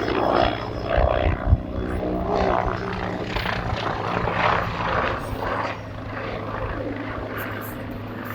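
AH-129D Mangusta attack helicopter flying a display, its rotor and turbine engines running with steady low tones under a rushing wash. Two short low thumps come about a second and a half in.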